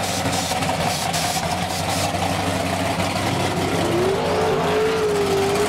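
Drag race car engine running steadily, with a whine that rises in pitch about four seconds in and then holds.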